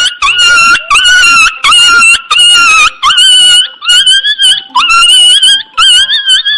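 A puppy whining and yelping in a rapid series of high-pitched cries, about ten in six seconds.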